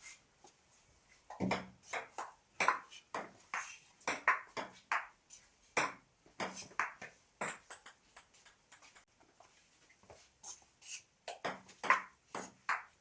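Table tennis rally: the ball clicking off bats and table about twice a second, with the points played on bats faced with pimpled rubbers. A stretch in the middle has only a few faint bounces before another exchange near the end.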